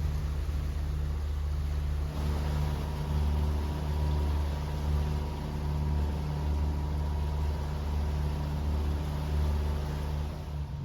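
Boat diesel engine running at a steady speed with a low, even drone; a faint steady whine joins about two seconds in.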